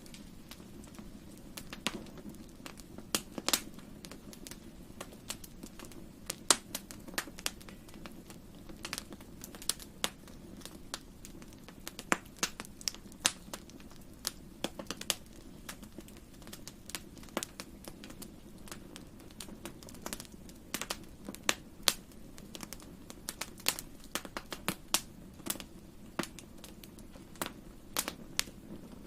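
Wood fire in a fireplace crackling, with irregular sharp pops and snaps over a soft steady low rumble.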